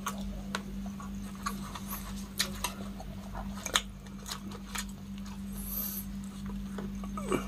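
Close-up mouth sounds of a person chewing cooked giant freshwater prawns, with scattered sharp wet smacks and clicks. A steady low hum runs underneath.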